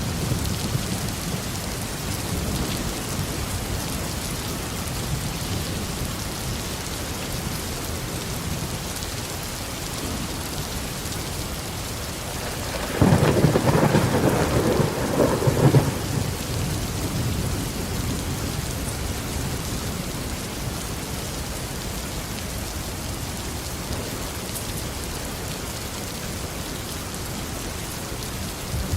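Steady tropical rain falling, with low thunder rumbling. About halfway through, a louder crack of thunder breaks in and lasts about three seconds.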